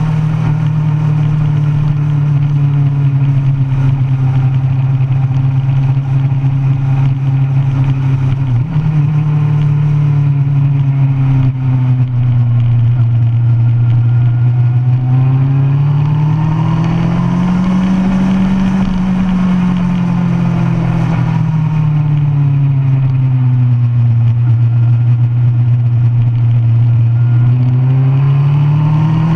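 2005 Kawasaki ZX-10R's inline-four engine running hard through a DanMoto racing exhaust, heard from the bike itself. The note holds fairly steady with a brief break about eight seconds in, then climbs and falls back in the second half and climbs again near the end.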